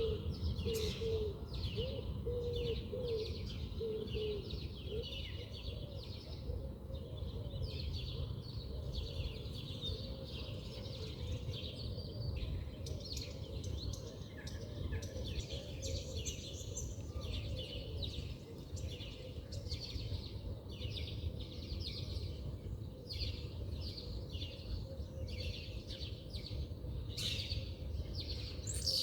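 Several small songbirds chirping and twittering with short, quick notes throughout, over a steady low background rumble. During the first few seconds a lower-pitched bird repeats a short cooing call.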